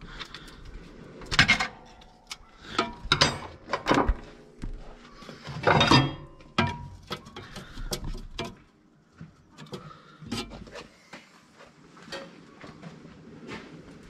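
Irregular metal clinks and knocks of hand tools and steel parts being handled during work on a tractor's gear shift cover. The loudest knocks come about a second and a half in and around six seconds in, and they thin out to scattered lighter ticks later on.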